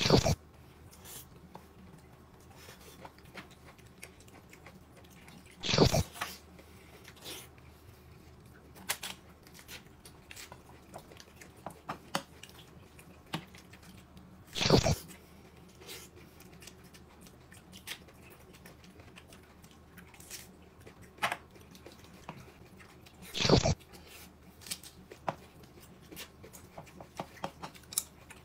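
A person eating close to the microphone: soft chewing and small mouth clicks, with three louder short eating noises about nine seconds apart.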